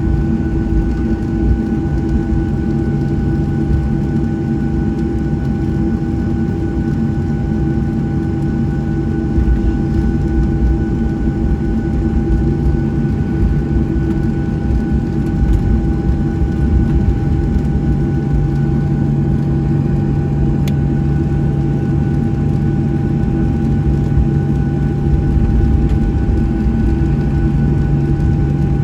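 Cabin noise of a Boeing 737-700 taxiing after landing: its CFM56-7B jet engines running at idle, with a steady low rumble and a thin steady whine over it.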